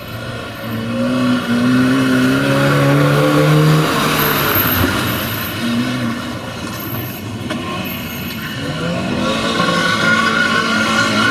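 Small hatchback rally car's engine revving hard under acceleration, its pitch climbing for a few seconds. It drops away about four seconds in as the driver lifts off, then climbs again near the end.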